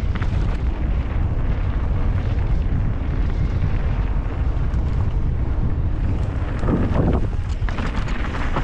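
Wind buffeting the microphone of a camera riding along on a mountain-bike descent, a steady loud rumble with a few brief louder bursts near the end.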